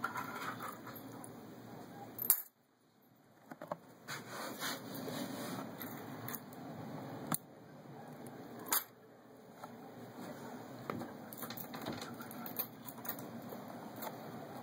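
Pennies clinking as they are dropped one by one into a small floating test boat, a few sharp clinks spread out, the loudest about two seconds in.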